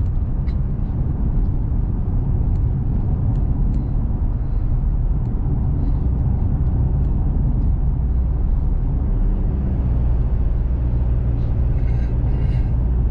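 Steady low rumble of a pickup truck driving at road speed, engine and tyre noise heard from inside the cab.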